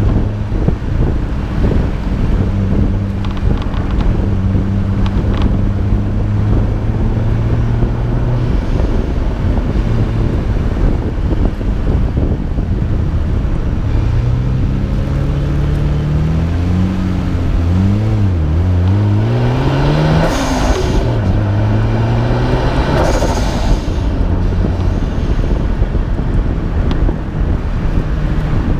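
Nissan Skyline R32 GT-R's twin-turbo straight-six under way, heard from the hood with wind and road noise. Past the middle the revs rise and fall through gear changes, followed by two short hissing blow-off valve releases a few seconds apart.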